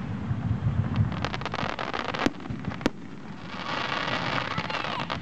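Aerial fireworks going off: low booming rumble with rapid crackling, two sharp bangs a little over two seconds in and just before three seconds, then a dense crackling hiss from crackle shells in the second half.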